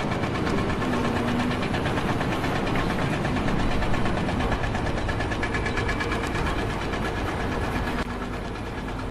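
A machine's engine running steadily with a fast, even knock.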